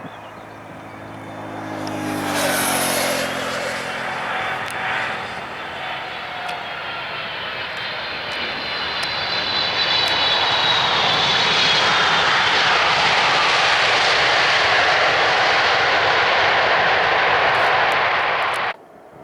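Jet airliner engines: an engine whine falling in pitch about two seconds in, then a loud, steady roar that builds and holds before cutting off abruptly near the end.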